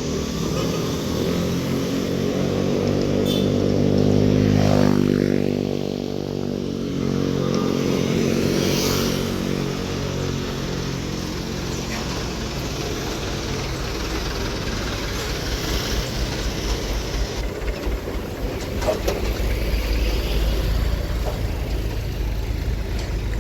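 Road traffic: a vehicle engine passes close about five seconds in, its pitch dipping as it goes by. Then a steady rumble of traffic follows, deepening toward the end.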